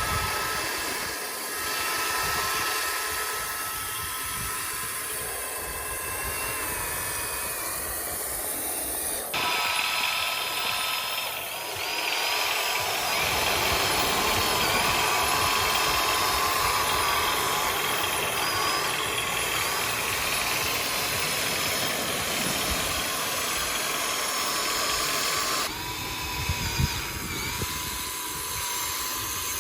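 Small electric motors and gearboxes of a radio-controlled toy excavator whining steadily, the pitch wavering as it works. The sound changes abruptly about a third of the way in and again near the end.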